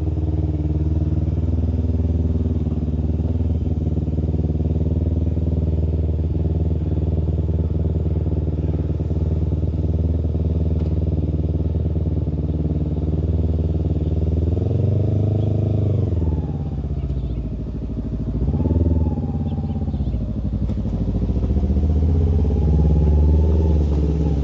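2009 Kawasaki Ninja motorcycle engine idling steadily. About fifteen seconds in it revs up and drops back, then rises and falls a little again twice before the end.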